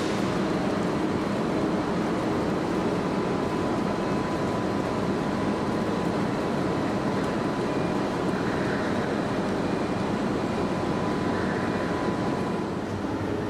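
Electric trains at the platforms giving a steady running hum, with a constant thin whine held until near the end.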